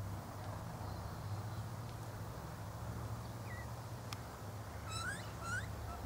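A bird gives two short rising calls about half a second apart near the end, after a faint short chirp, over a steady low hum.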